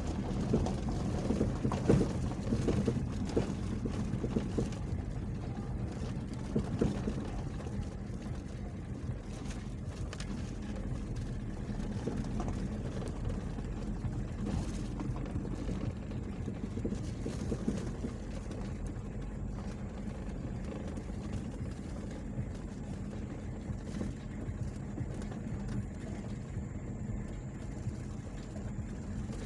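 Small boat engine running steadily at an even speed, with wind and water noise over it.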